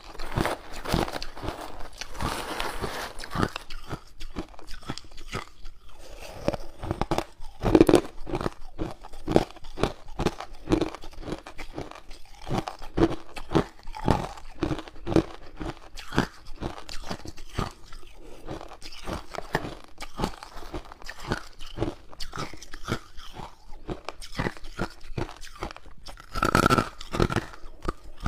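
Hard ice cubes being bitten and chewed close to the microphone: a dense, irregular run of sharp crunches and cracks, with a few louder bites.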